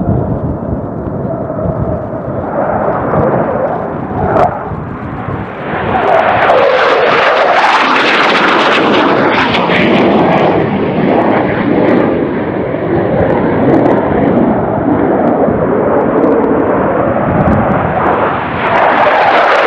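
F-15 Eagle twin-engine jet fighter flying low overhead, its jet noise swelling about five seconds in and staying loud, with sweeping whooshes rising and falling in pitch as it passes.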